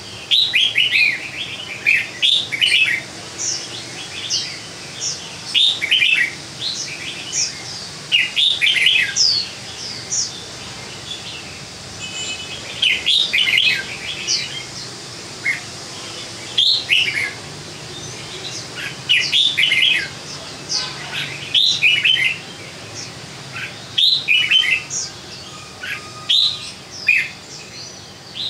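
Caged red-whiskered bulbul singing: short, quick phrases of chirping notes, repeated every one to three seconds.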